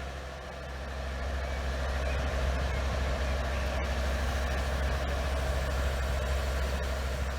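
Heavy diesel lorry engine running steadily with a deep, even hum.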